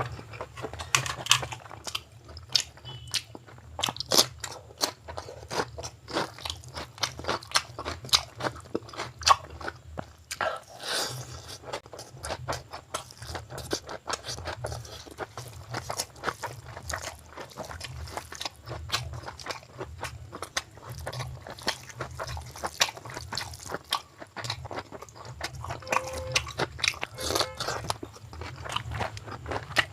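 A person chewing food close to the microphone: a fast, continuous run of crunchy, wet mouth clicks, several each second.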